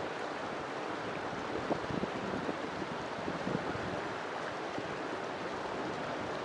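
River water flowing steadily over rocks, a continuous rushing with small irregular splashes and gurgles.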